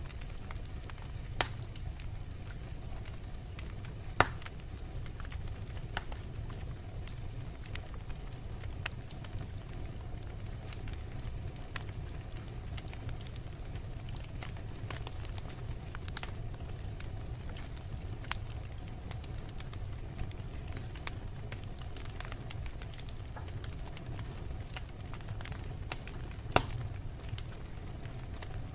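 Logs burning in a fireplace: a steady low rumble of flame with scattered crackles and pops, three of them sharper and louder, about a second and a half in, about four seconds in and near the end.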